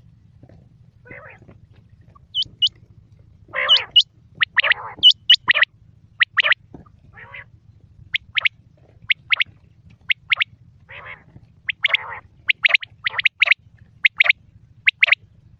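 Quail calling: a string of short, sharp, high-pitched call notes, often in quick groups of two or three, with a few raspier calls mixed in, over a faint steady low hum.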